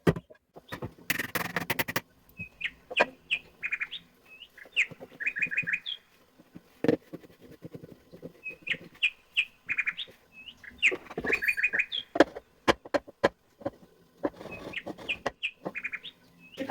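A small bird chirping in short phrases, each a chirp followed by a quick run of about four high notes, repeating every few seconds. Sharp clicks and knocks sound between and over the chirps.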